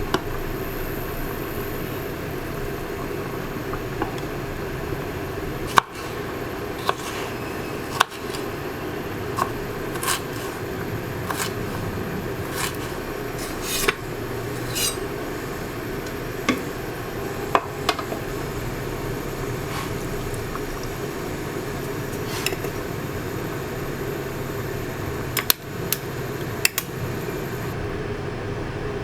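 Dishes and cutlery clinking now and then, a couple of dozen sharp clicks spread irregularly, over a steady background hum.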